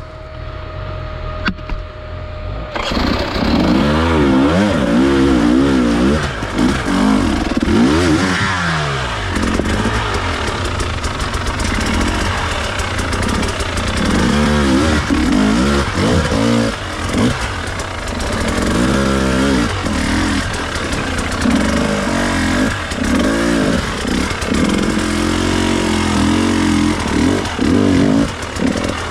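Enduro dirt bike engine being ridden off-road, the revs rising and falling over and over as the throttle is worked. It gets much louder about three seconds in.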